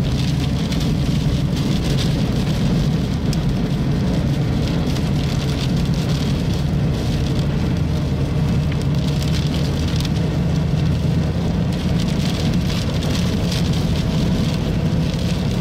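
Rain falling on a car, heard from inside the cabin over the steady low hum of the vehicle.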